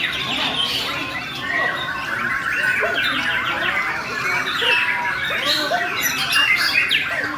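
White-crowned shama (murai borneo) singing loudly, a dense, continuous run of quick whistles, trills and sliding notes.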